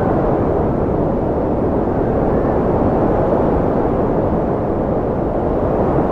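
Steady cold wind rushing with a deep, even roar, with a faint brief whistle about two and a half seconds in.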